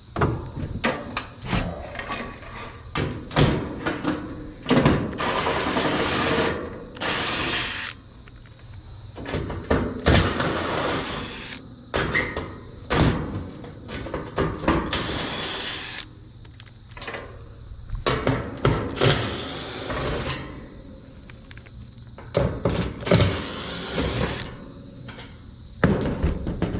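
Hands-on work on an HVAC condenser unit to reach its fan motor: irregular knocks and clatter of tools and sheet metal, with several scraping or grinding stretches lasting a second or two.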